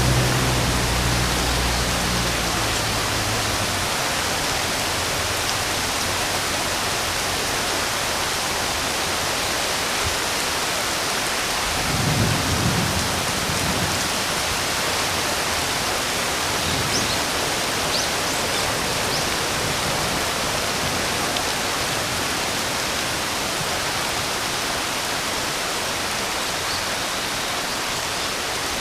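Steady heavy rain hissing, with a low rumble of thunder dying away in the first few seconds and another short rumble about twelve seconds in. A few faint high chirps come through the rain a little after that.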